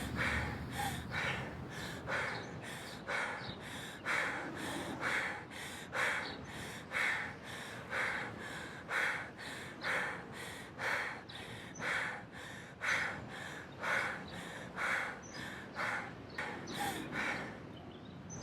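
A person breathing quickly and heavily in short, rhythmic in-and-out puffs, about one breath a second, the panting of someone in distress.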